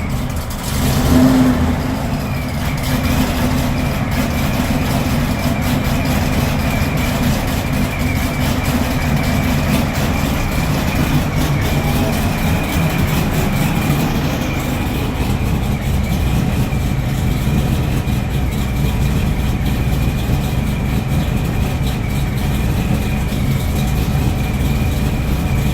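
Corvette engine running steadily at idle after a cold start, with a brief swell in level about a second in. A thin, steady high whine rides over the engine from a couple of seconds in.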